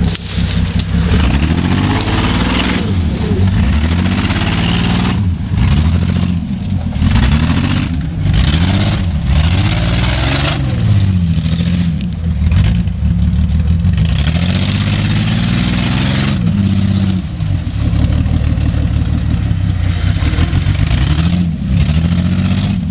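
A vehicle's engine revving up and down over and over as it is driven, its pitch rising and dropping every second or two, with a steady hiss over it.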